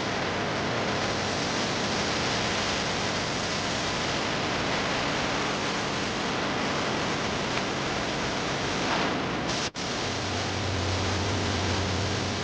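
Steady rushing, hiss-like noise of a food-processing line. It cuts out for an instant about ten seconds in, and a low hum joins it afterwards.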